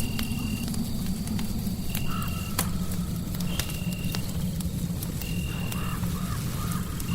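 Fireplace crackling with sharp pops over a steady low rumble of white noise. A short high chirp repeats about every one and a half seconds, and a few lower warbling calls come twice, about two seconds in and again near six seconds.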